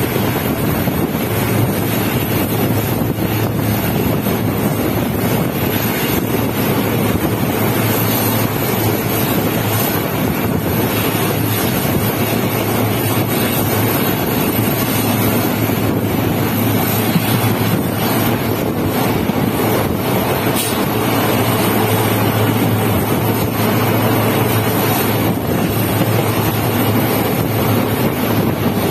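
Steady running noise of an Indian passenger train coach at speed, heard at an open barred window: wheels rumbling on the rails, with wind on the microphone. A low steady hum runs under it and a few faint knocks come through.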